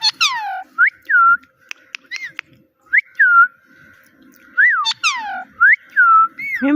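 Pet parrot whistling: a string of short up-and-down chirps, with two long falling whistles that sweep down from high, one at the start and one about five seconds in.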